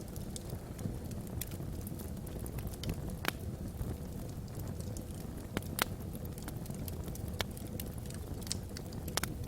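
Wood fire burning in a fireplace: a steady low rumble of flame with irregular sharp crackles and pops from the burning logs, the loudest pops about three and six seconds in.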